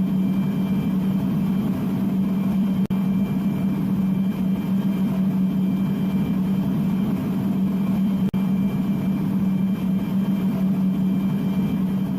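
A steady, loud machine drone with a strong low hum, broken twice by a split-second dropout.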